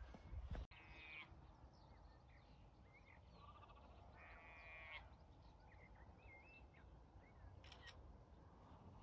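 Faint songbird song in open country: a couple of rapid trills and short whistled notes over a steady low rumble, with a few low thumps at the very start.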